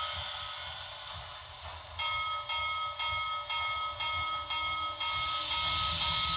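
Sound-decoder locomotive bell of an HO scale steam locomotive model ringing about two strokes a second, starting about two seconds in, over a low rumble.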